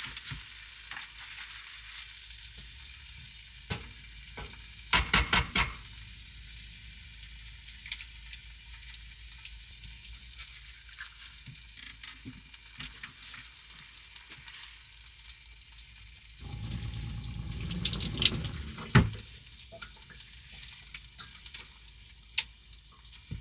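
Food sizzling in a frying pan, with a quick run of clinks about a fifth of the way in and small clicks of utensils. Near the end, a tap runs into a sink for about two seconds and stops with a sharp knock.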